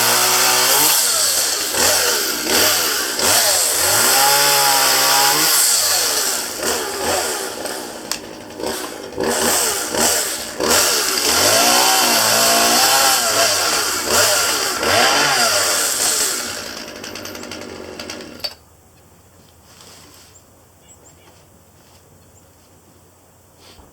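Chainsaw cutting downed branches, its engine pitch rising and falling again and again with throttle and load. It shuts off suddenly about eighteen seconds in.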